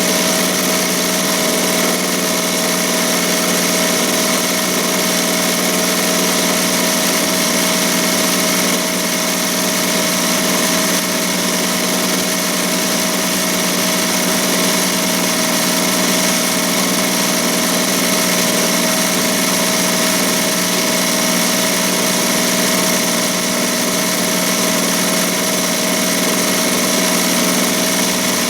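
ZSK Sprint 10-needle commercial embroidery machine stitching steadily at high speed, about 1200 stitches per minute, a fast, even mechanical hum.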